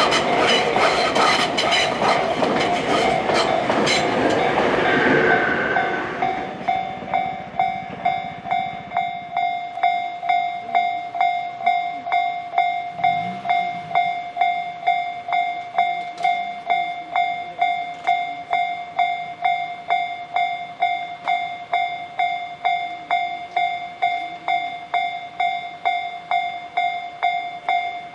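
An electric train of the Tobu Skytree Line runs past over the level crossing, wheels clicking on the rail joints, and dies away about six seconds in. The crossing's warning bell keeps ringing in an even rhythm of about two strikes a second.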